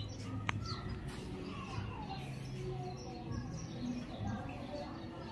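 Small birds chirping now and then in the background, with a faint click about half a second in.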